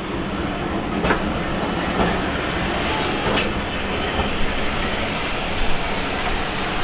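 Passenger coaches of a railway train rolling along the platform: a steady rumble from the running gear, with a few irregular clicks and knocks from the wheels over the rail joints.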